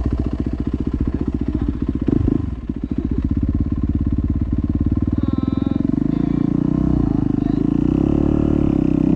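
Dirt bike engine running as the bike is ridden. The engine drops off briefly about two and a half seconds in, then picks back up and runs louder and steadier.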